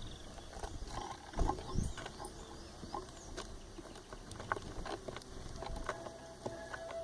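Birds chirping faintly amid scattered knocks and rustling, with a steady whistle-like tone starting about five and a half seconds in.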